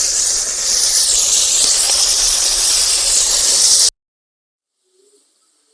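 Steady, loud hissing from a very hot small tandoor with chicken pieces just put inside, cutting off suddenly about four seconds in.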